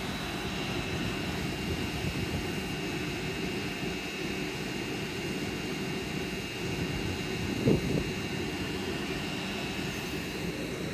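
LNER Azuma Class 801 electric train moving off from the platform, a steady rumble of running noise.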